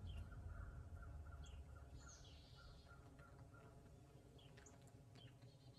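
Near silence with faint birds chirping: scattered short chirps and a quick run of repeated notes, about three a second, in the first half.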